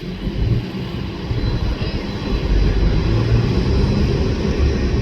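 Boeing 747-400's four turbofan engines running at taxi power: a deep, steady rumble with a faint high whine, growing louder about two and a half seconds in.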